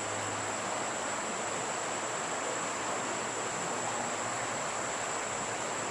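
Steady rush of flowing creek water, with a thin, constant high-pitched whine above it.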